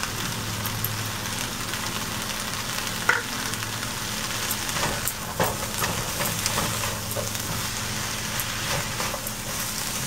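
Okra sizzling as it fries in oil in a nonstick frying pan, stirred with a plastic spatula that scrapes and knocks against the pan, the sharpest knock about three seconds in. A low steady hum runs underneath.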